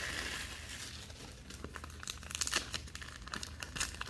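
Plastic trading card pack wrappers crinkling and tearing as packs are opened by hand, with a run of small crackles that gets busier partway through.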